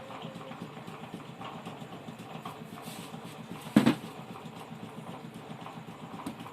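A single sharp knock a little under four seconds in, over steady low background noise.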